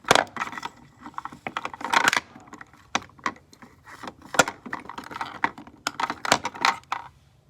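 Plastic makeup containers being handled and rummaged through: a quick, irregular run of clicks and clatters with rustling in between.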